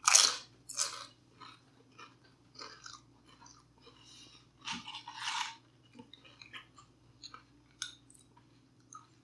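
A person chewing food close to the microphone, with loud crunches: the loudest right at the start, another just under a second in and a longer one about five seconds in, and small wet mouth clicks between.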